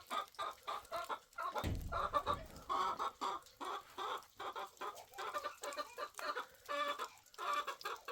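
Chickens clucking, a steady run of short calls several times a second, with a low thud just under two seconds in.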